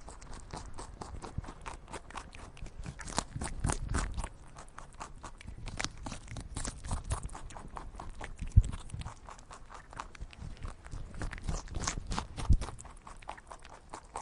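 Animals moving about: irregular crunching, rustling and steps, with two sharp thumps, one about eight and a half seconds in and one near the end.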